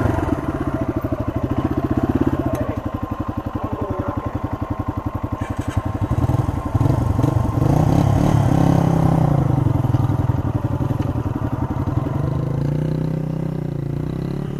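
Yamaha trail bikes' air-cooled single-cylinder four-stroke engines running at low speed over rough ground, with a steady rapid exhaust pulse. The engine note grows louder and busier about halfway through as the bike is ridden harder.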